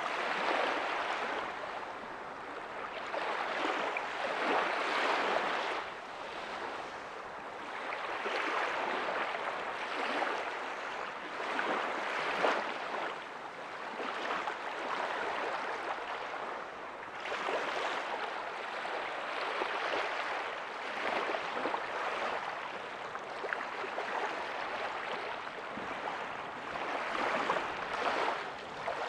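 Small ocean waves breaking softly on a beach: a continuous wash of surf hiss that swells and eases every few seconds as each wave comes in.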